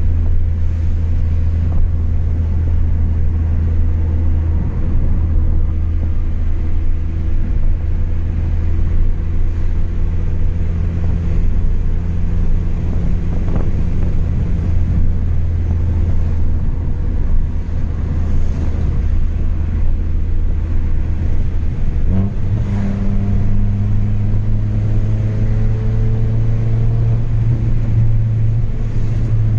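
Chevrolet Astra 2.0 four-cylinder engine running through a straight-piped exhaust while driving, with a steady low drone at cruising revs. About two-thirds of the way through, the revs rise quickly and then hold at a higher, steady pitch.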